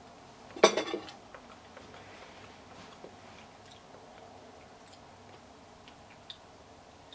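A person eating a piece of soft vegan Wensleydale-style cheese with cranberries: one short, louder mouth sound a little over half a second in, then quiet chewing with small faint clicks.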